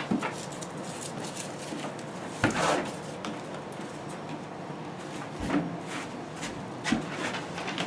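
A few scattered knocks and handling noises over a steady hiss, the loudest about two and a half seconds in.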